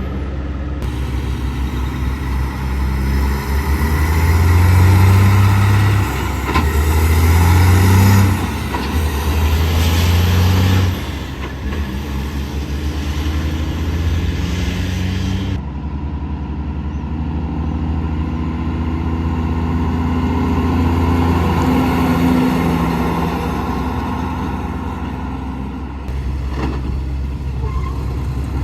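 Diesel semi-truck engine pulling away, shifting up through the gears in three loud pulls, each ending with a drop in engine speed. It is followed by another heavy truck's engine running steadily past.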